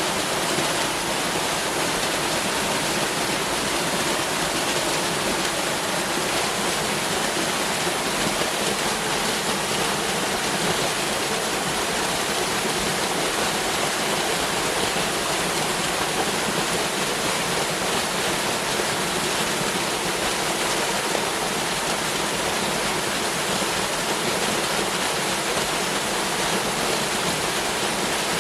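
Waterfall: steady rushing of falling water, an even hiss with no breaks or changes.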